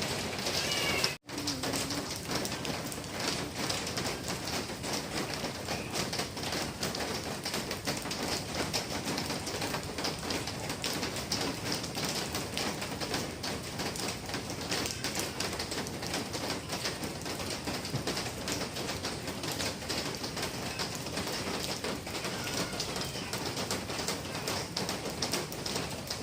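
Steady rain falling and pattering on surfaces, with a few faint bird calls. The sound drops out for an instant about a second in.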